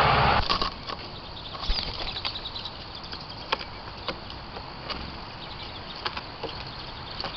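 Small birds giving short high chirps, with scattered sharp clicks and taps among them. A passing vehicle's noise cuts off about half a second in.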